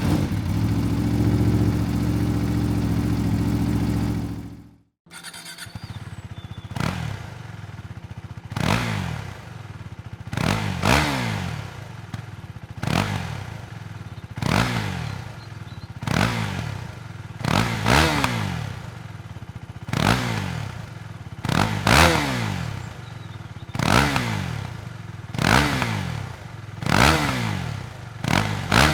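Husqvarna Svartpilen 401's single-cylinder engine and exhaust: a steady held drone that cuts off about four seconds in, then the engine idling with a dozen or so quick throttle blips, each rev falling back to idle.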